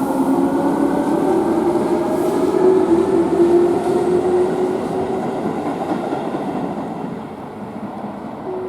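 Tobu 10030-series express train pulling away from the next platform: its motors whine, rising steadily in pitch as it gathers speed, then the sound fades as it leaves.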